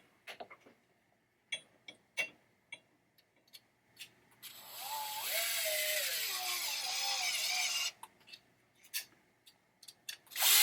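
A few light clicks and taps of small parts being handled. Then a power drill runs for about three and a half seconds, driving a screw, its motor whine dropping in pitch as the screw tightens.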